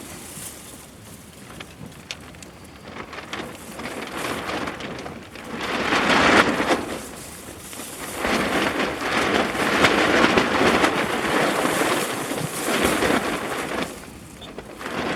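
Campfire burning: a rushing hiss of flames with scattered sharp crackles, swelling louder about six seconds in and again for several seconds from about nine seconds.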